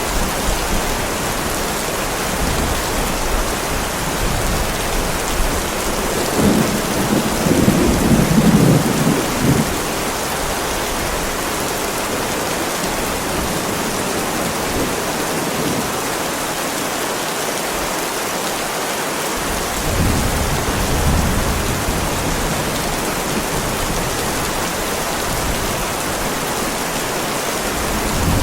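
Heavy rain falling on a driveway, a steady dense hiss. A low rumble of thunder swells about six seconds in and fades by ten seconds, and a weaker rumble comes around twenty seconds in.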